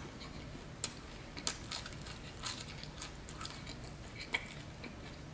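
Closed-mouth chewing of a mouthful of pizza crust: irregular small wet clicks and crackles, several over a few seconds.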